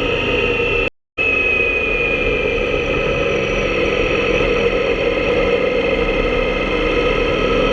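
Motorcycle engine running steadily with road and wind noise, as heard from a GoPro mounted on a bike that is being ridden. The sound cuts out for a moment about a second in.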